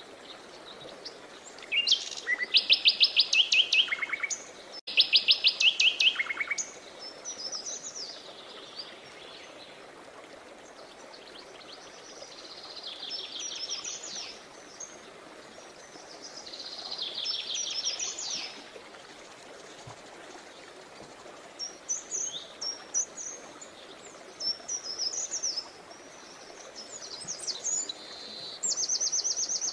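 Songbirds singing: repeated rapid trilled phrases every few seconds, loudest in the first six seconds, with shorter chirps between. Behind them runs a steady faint rush, the water of the soundscape.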